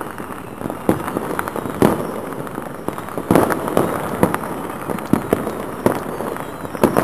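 Many fireworks and firecrackers going off at once, a steady din of distant bangs and crackling with sharper, louder bangs every second or so.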